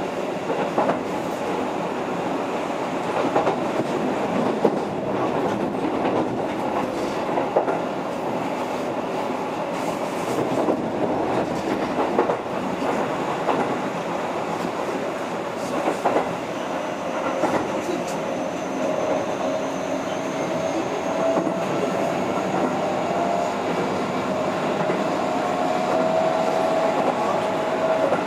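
Keihan 3000 series electric train running at speed: a steady rumble of wheels on rail with occasional sharp clacks over rail joints. A faint tone rises gently through the last third.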